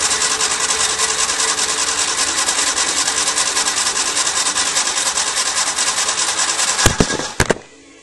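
Honda Civic CVCC engine being cranked over on its starter motor with the coil wire off, spinning without firing to prime the oil system after a camshaft replacement. Steady, rapid rhythmic cranking that stops about seven and a half seconds in, with a few sharp clicks just before it cuts off.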